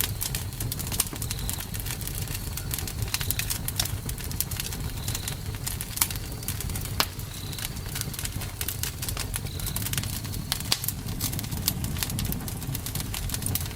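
Campfire burning, wood crackling and popping in sharp irregular snaps over a low rumble of flames. A faint short high chirp repeats about every two seconds.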